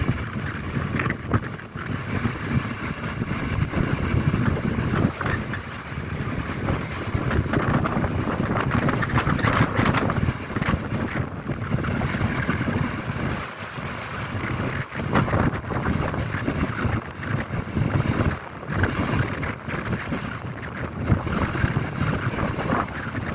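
Heavy machinery running at an earth-loading site, a continuous engine rumble whose loudness rises and falls, with wind buffeting the microphone.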